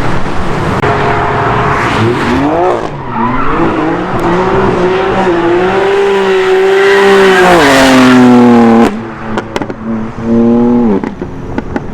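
A high-performance car engine accelerating hard. The revs climb in several rising sweeps into a loud sustained note that dips and cuts off sharply about nine seconds in, then comes one shorter rev near the end.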